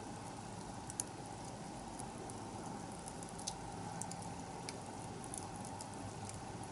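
Wood bonfire crackling: a steady hiss of burning with scattered sharp pops, the loudest about a second in.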